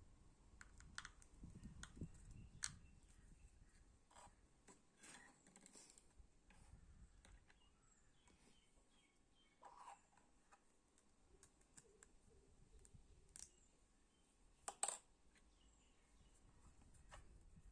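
Near silence with faint, scattered clicks and taps at irregular intervals, a slightly sharper click about 15 seconds in.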